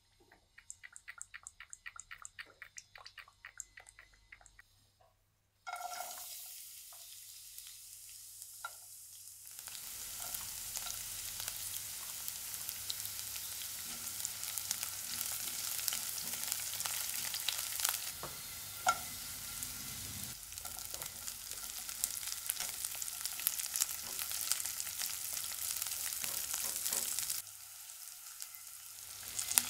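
Oil in a hot ceramic-coated wok, ticking quickly for a few seconds as it is poured in, then sizzling suddenly. The sizzle grows louder about ten seconds in, as chilies and garlic fry while a silicone spatula stirs them.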